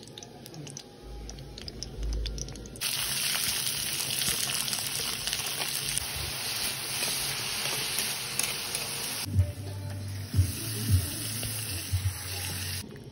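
Onions and chillies frying in hot oil in a kadai, a loud steady sizzle that starts about three seconds in. Later the sizzle drops in level, with a few low knocks as the marinated chicken goes into the pan.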